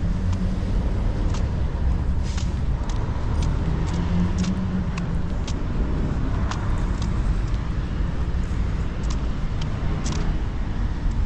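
Steady low rumble of motor vehicles, with light ticks and taps scattered through it.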